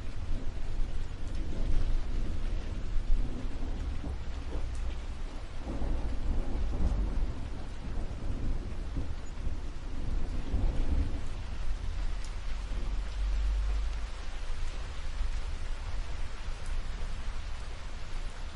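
Thunderstorm: steady rain falling while thunder rumbles low and long, swelling through the first half and easing off later.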